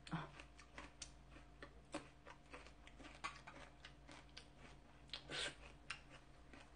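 Faint close-up chewing: soft, irregular wet mouth clicks, with a short rush of noise about five seconds in.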